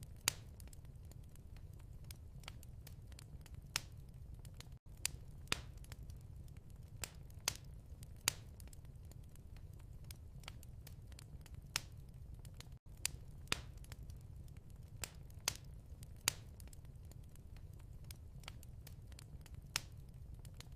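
Wood fire crackling, with irregular sharp pops over a steady low rumble. The sound cuts out for an instant twice.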